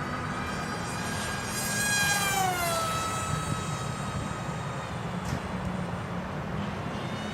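Electric RC model airplane's motor and propeller whining in flight, the pitch falling about two seconds in, then holding steady. Wind rumbles on the microphone underneath.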